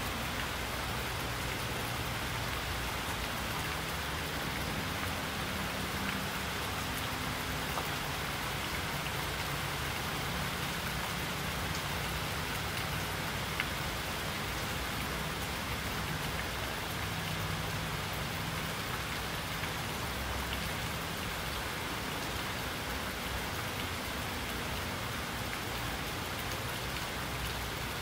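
Steady rain falling, a dense even patter with no let-up, over a faint low rumble that comes and goes. One sharper drip stands out about halfway through.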